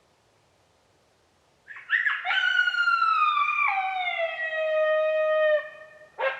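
Coyote howl played on a predator call: after a near-silent start, a short rising onset about two seconds in, then one long howl sliding slowly down in pitch with a step down midway. A second, wavering howl begins just at the end.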